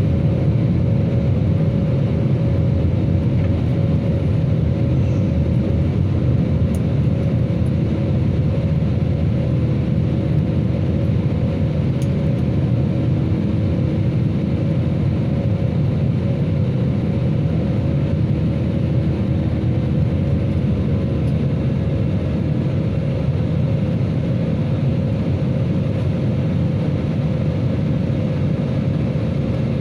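Jet airliner on its take-off run or climb: a loud, steady, deep rumble of engines and airflow with a faint steady whine above it.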